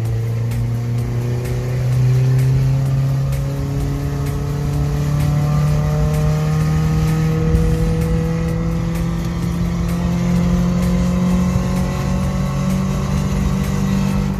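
Toyota 3SZ 1.5-litre four-cylinder engine in a VW bus running steadily, its revs climbing slowly and evenly throughout.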